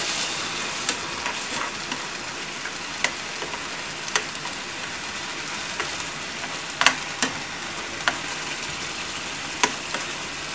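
Cubes of marinated beef and garlic sizzling in hot oil in a metal wok over high heat, with a few sharp clicks of chopsticks knocking against the pan as the meat is turned.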